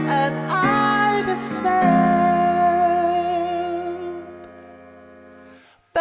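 Live band music: sustained keyboard chords under a sung vocal line, fading away from about four seconds in, with a brief gap just before the music starts again at the very end.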